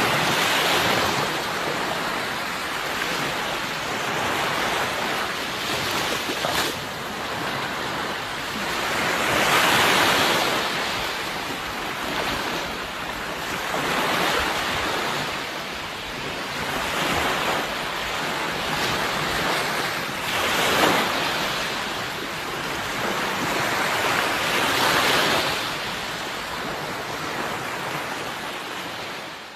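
Sea waves breaking and washing on a shore, each swell rising and falling every few seconds, with wind noise on the microphone.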